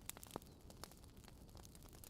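Wood fire burning in a fireplace, crackling softly: a faint steady hiss with frequent small sharp pops from the burning logs, the loudest just under half a second in.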